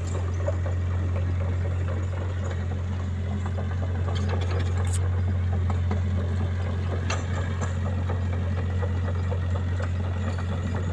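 An engine-driven machine running steadily, with a deep, even hum.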